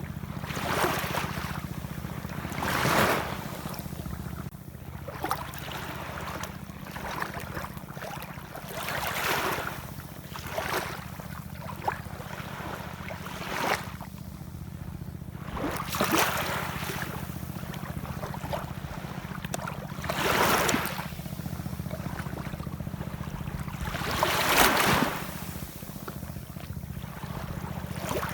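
Ocean waves washing in, one surge every two to five seconds, over a steady low rumble.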